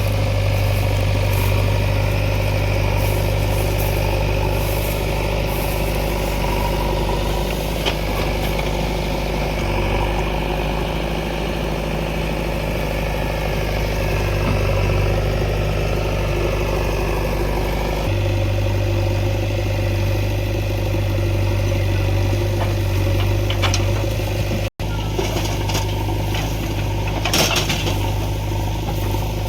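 Heavy diesel engine of earth-moving machinery running steadily with a low drone. The sound drops out for an instant about 25 s in.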